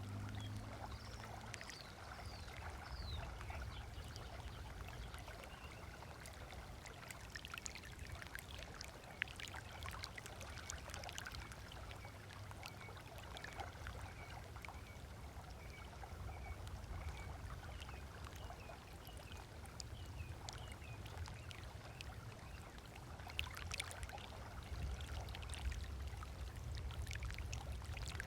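Small waves lapping and splashing on a sandy lakeshore, with birds chirping in quick runs of short notes now and then. A low rumble runs underneath, and a boat motor's hum dies away in the first second.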